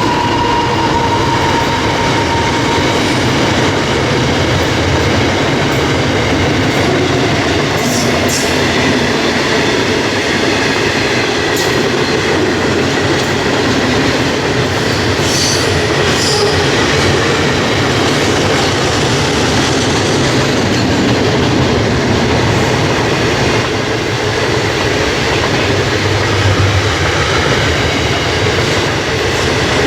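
A freight train's wagons rolling past in a steady, continuous rumble of wheels on rail. A high wheel squeal fades out in the first second, and a few sharp metallic clicks come through around a quarter and half of the way in.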